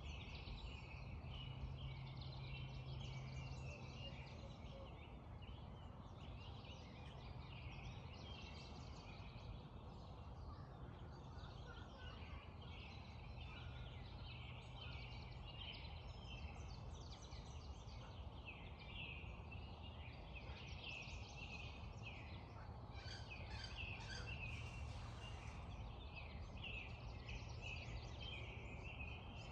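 Spring dawn chorus of many songbirds chirping and trilling at once, over a steady low background rumble.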